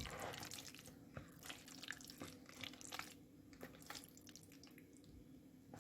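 Faint mixing of chickpea chaat in a bowl with a spoon: irregular soft clicks and scrapes, a little busier in the first second.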